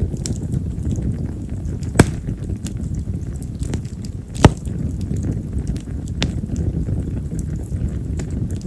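Campfire of split wild cherry (yamazakura) firewood crackling, with scattered small pops and two sharp, loud snaps about two and four and a half seconds in, over a steady low rumble. Cherry wood is known for crackling hard, with firecracker-like pops.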